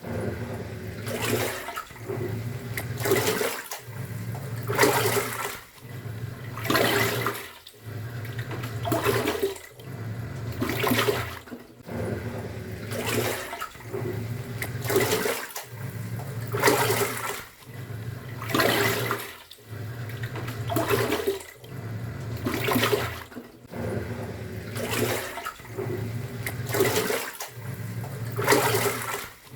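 Top-loading pulsator washing machine agitating a load in water: the motor hums as the pulsator turns, stops briefly and reverses about every two seconds, each stroke churning and sloshing the water.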